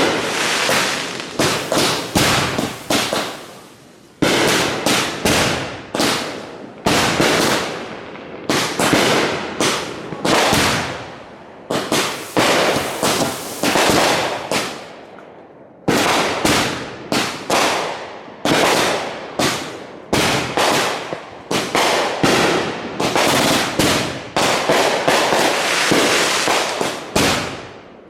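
Consumer fireworks going off in a rapid barrage: loud bangs several a second, overlapping, each ringing away quickly, with short lulls a few times before the firing picks up again.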